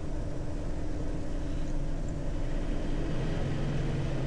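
Tow truck's engine running with steady road noise as the truck drives along the highway. The engine note grows louder about three seconds in.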